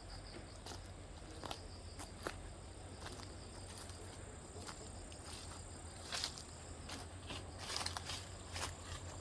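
Faint insects trilling steadily at a high pitch, with scattered light clicks and taps that come more often toward the end.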